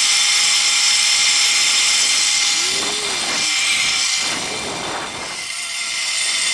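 Zip-line trolley pulleys running along the steel cable: a steady high-pitched whirring hiss that eases slightly about five seconds in.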